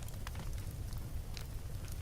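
Wood fire burning in a fireplace: a steady low rumble with a few scattered sharp crackles and pops.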